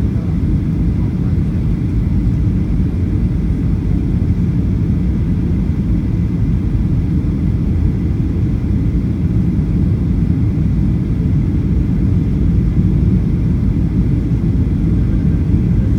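Steady low rumble inside the cabin of a Boeing 737-800 in flight, from engine and airflow noise.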